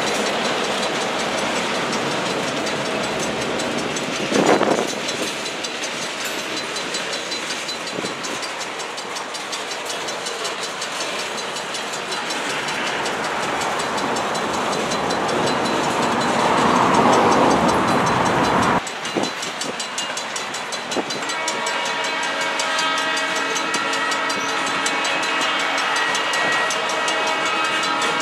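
Freight cars rolling by on steel wheels in a steady rumble, with a single loud bang about four seconds in. After a break the rolling is quieter, and a steady high squeal in several tones sets in and holds.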